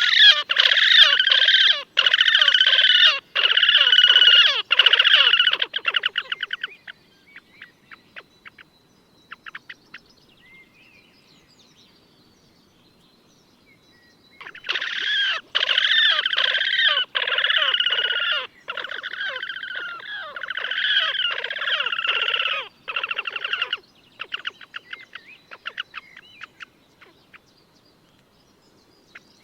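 Slavonian (horned) grebes giving long trilling calls, made of fast, squealing pulses, in two bouts. The first bout lasts about six seconds and the second begins about halfway through and lasts about nine. Each bout trails off into a faint dry rattle.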